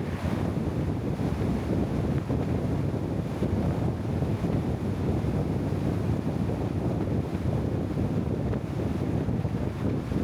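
Steady low rumble of wind buffeting the microphone, even throughout with no distinct events.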